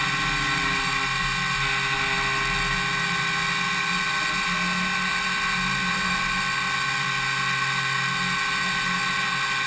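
DMU 70V five-axis machining centre milling an impeller blade: the high-speed spindle and cutter give a steady whine made up of many steady tones at once.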